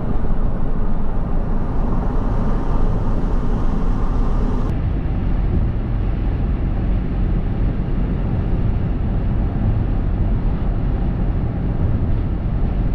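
Steady road and engine noise from a truck driving at highway speed, a continuous low rumble. The higher hiss drops away suddenly about five seconds in.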